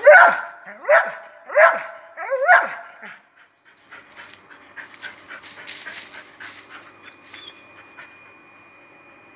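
A dog barking four times in quick succession, each bark dropping in pitch, followed by fainter scattered clicks and scuffling for the rest of the time.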